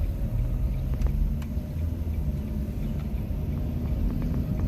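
Low, steady tyre and road rumble inside the cabin of a 2021 Nissan Leaf electric car on the move.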